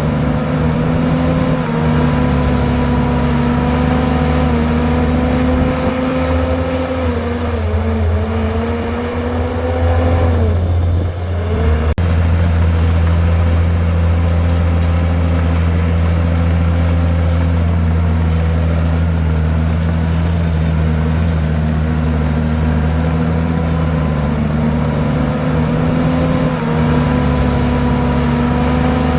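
Komatsu bulldozer's diesel engine running steadily under load. Its pitch sags for a few seconds about a third of the way in, then recovers after a brief drop and a sharp click near the middle.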